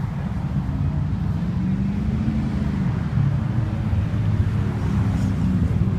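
Low rumble of classic car engines running in traffic, one engine's pitch rising and easing off about two seconds in.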